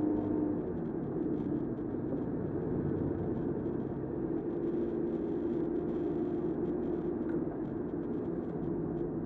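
Car driving, heard from inside the cabin: a steady mix of engine drone and tyre noise, with a few tones that shift slowly as the engine speed changes.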